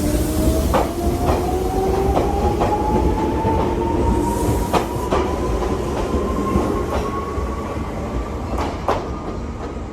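Electric train accelerating, its motors whining in a tone that rises steadily in pitch over a low rumble. The wheels click sharply over rail joints at irregular intervals.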